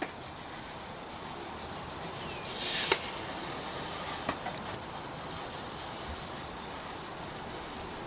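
Sharpie marker tip and a paper guide rubbing and scraping along the edge of a steel blade blank as a line is drawn, with faint ticks as it catches; the scraping is loudest about three seconds in.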